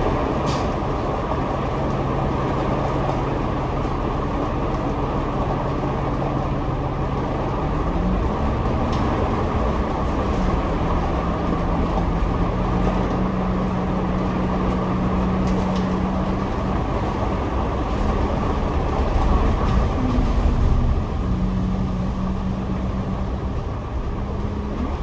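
Double-decker bus heard from its upper deck while driving: a steady engine and road rumble, with the engine's tone stepping up and down in pitch several times as it speeds up, slows and changes gear.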